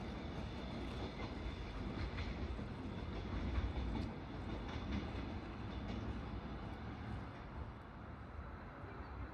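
A train running, heard as a steady low rumble with a few faint clicks, easing slightly near the end.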